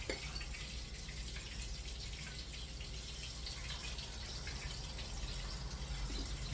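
Chicken pieces frying in hot oil: a steady sizzle with fine crackling.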